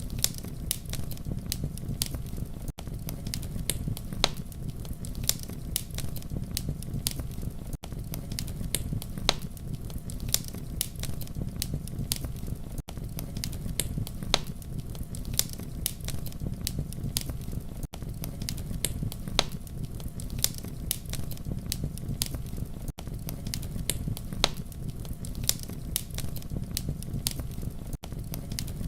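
Campfire crackling: frequent irregular pops and snaps over a steady low rumble of burning, with a brief dropout about every five seconds.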